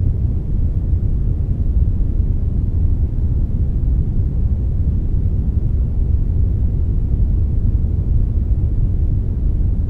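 Steady synthetic brownish noise, brown noise blended with some white noise: an even, deep rumbling hiss, heaviest in the low end, with no changes.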